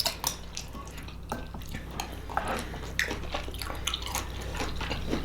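Eating sounds: scattered light clicks and taps of cutlery on plates, with chewing, over a low steady hum.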